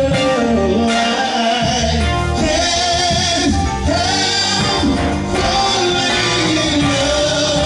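Live gospel song with sung vocals over a full band with bass and drums.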